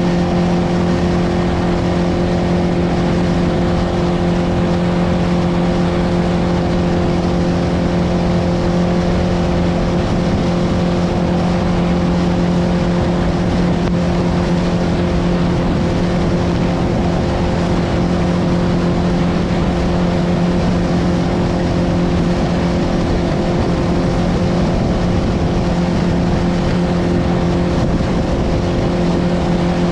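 Boat motor running at a steady speed under a constant rush of wind and water noise on a choppy ride.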